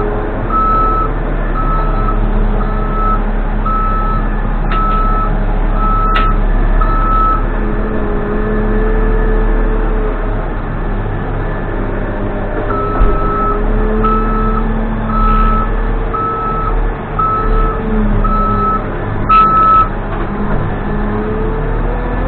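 Case 580N backhoe loader's diesel engine running, its pitch rising and falling as it works, while its reversing alarm beeps about once a second, stops for a few seconds, then beeps again. A few sharp metallic knocks.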